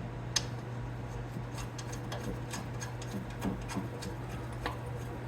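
Scattered small metallic clicks and taps of a carburetor float bowl being fitted back on and its bolt started by hand, about a dozen light ticks over a steady low hum.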